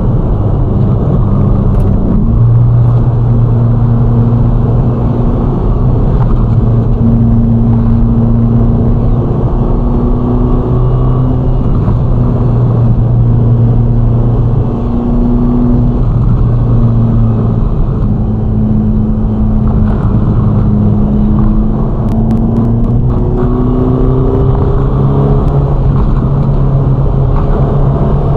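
Ferrari Roma's twin-turbo V8 cruising at steady revs, with small changes in pitch and a rise in revs over the last few seconds, over road and wind noise.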